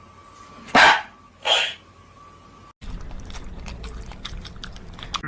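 A dog barking twice in quick succession, sharp and loud. After a sudden cut, scattered faint clicks over a low rumble follow.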